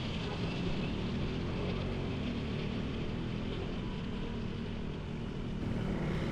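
Motorcycle engine running steadily with a low hum, under an even hiss of wind and road noise.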